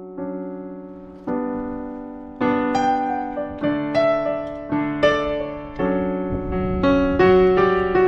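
Background music: a solo piano playing a slow, gentle tune, each struck chord dying away before the next. The notes come more often from about two seconds in.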